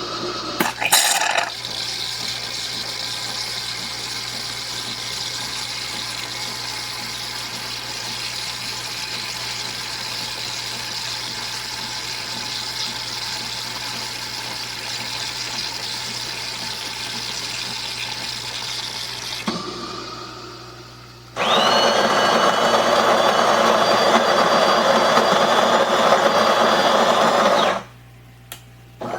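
De'Longhi Dinamica Plus super-automatic espresso machine working through a drink cycle: a steady mechanical whirr with a short louder burst about a second in, then after a brief drop a louder buzzing stretch of about six seconds that opens with a rising whine and stops abruptly.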